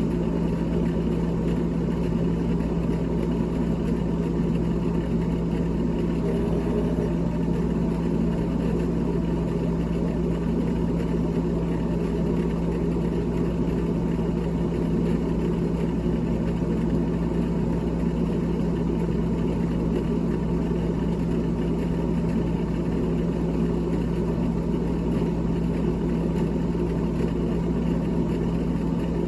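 Freezer fan of a GE GTH18XCTZRBB refrigerator running, a steady motor hum with a constant low tone.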